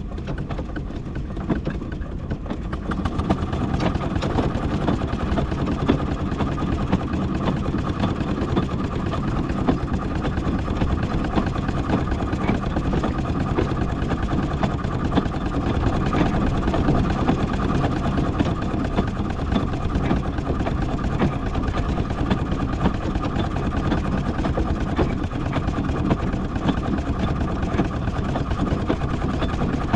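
Miniature steam traction engine running steadily while crawling along in bottom gear.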